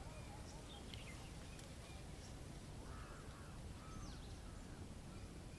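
Faint outdoor nature ambience: a few scattered bird calls, short chirps and a pair of arched calls about three seconds in, over a steady low rumble.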